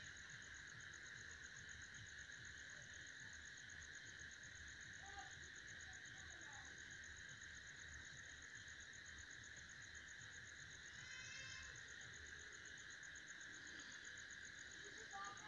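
Near silence with a faint, steady, high-pitched trilling of insects in the background.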